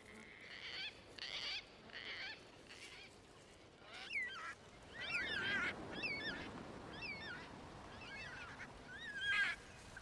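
Birds calling: short raspy calls repeated about twice a second for the first few seconds, then a run of quick whistled chirps that swoop up and down in pitch. A low rushing noise comes in about five seconds in beneath the chirps.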